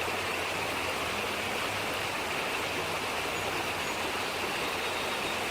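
Floodwater rushing steadily, an even, unbroken hiss of running water.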